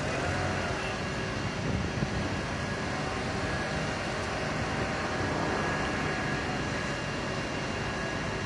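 Steady vehicle and street noise, with an engine running and no distinct events.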